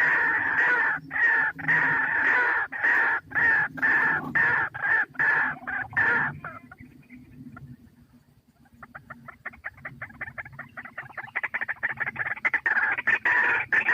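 White-breasted waterhen calling: loud, harsh repeated notes that fade out about six seconds in, then a new bout of rapid notes starting around nine seconds in and growing louder.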